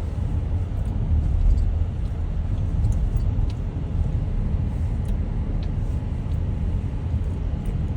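Inside a car's cabin while driving: a steady low rumble of engine and road noise.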